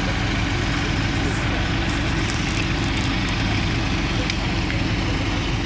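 Truck engine running steadily with a low, pulsing rumble.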